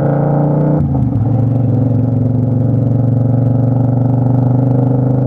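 Loud motorcycle engine running under way, its note dropping about a second in and then holding steady.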